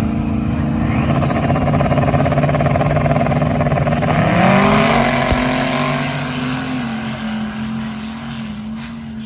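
Pickup truck engine running steadily, then revving up about four seconds in and holding the higher revs as the sound slowly fades.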